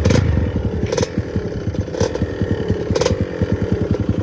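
Kawasaki KLX230's single-cylinder four-stroke engine running at low revs, its pitch slowly easing down, with a sharp clatter about once a second.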